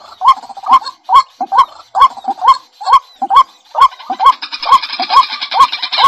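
A bird's short rising call repeated rapidly and evenly, about two to three calls a second, each with a sharp click; from about four seconds in a high, buzzy chirping joins.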